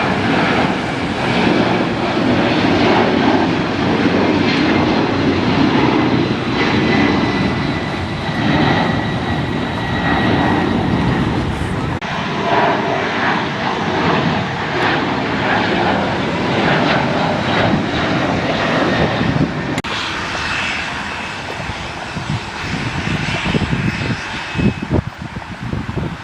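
Jet airliner passing close by, its engines giving a steady high whine over a broad rumble. The sound eases about three-quarters of the way through, leaving gusty wind on the microphone near the end.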